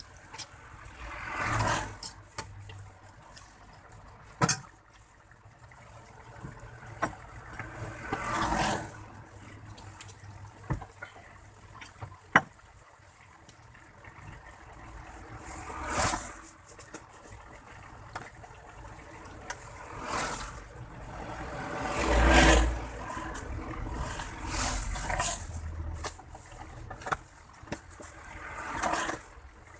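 Vehicles passing by every several seconds, each a rising and falling whoosh, one of them with a heavy low rumble, with scattered clicks and knocks in between.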